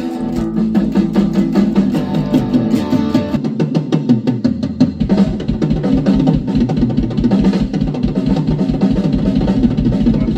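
Heavy rock music played on drum kit, bass and guitar. The drums keep a fast, driving beat that grows denser about halfway through.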